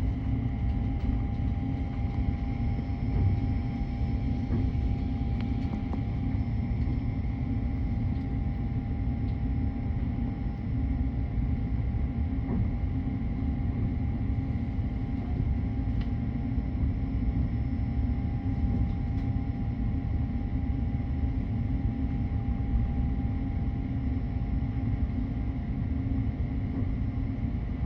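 Train running steadily: a constant low rumble with a faint, steady hum above it.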